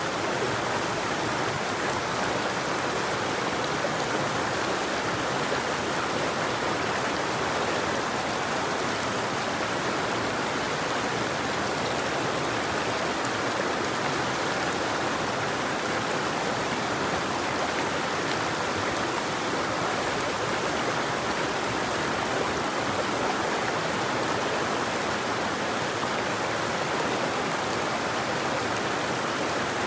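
River water flowing steadily, an even rushing sound with no breaks or other sounds in it.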